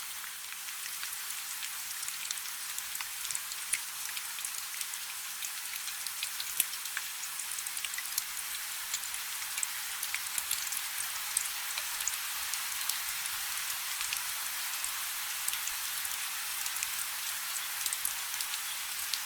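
Light rain falling steadily: an even high hiss with many small, sharp drop ticks scattered through it.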